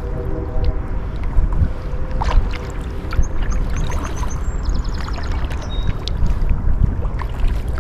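Kayak paddle strokes dipping and splashing in the water over a low rumble of wind on the microphone. A small bird gives a brief run of rapid high chirps around the middle.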